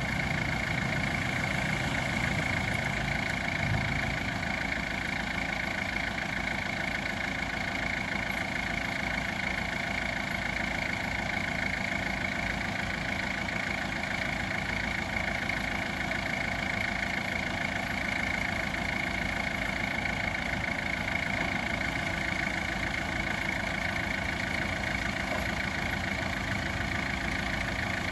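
Diesel engine of a piece of earthmoving machinery running steadily at low speed, with a constant high tone over it.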